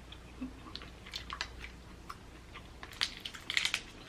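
Close-miked eating of crab legs: chewing, with scattered short crackles and clicks from the shell and meat, and a busier run of them about three seconds in.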